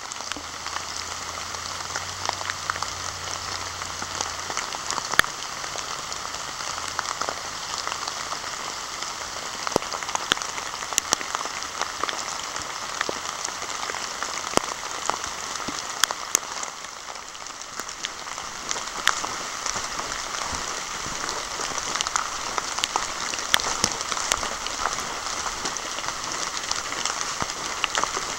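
Steady rain falling through woodland, with frequent sharp taps of drops landing close by.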